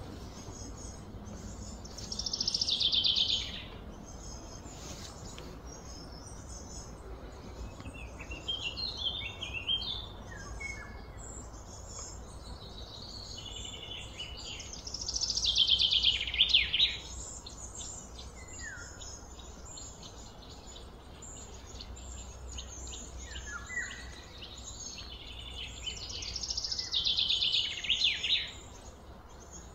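Songbird singing a loud, high, rapidly trilled phrase three times, roughly every twelve seconds, with softer chirps from birds in between over a faint steady low hum.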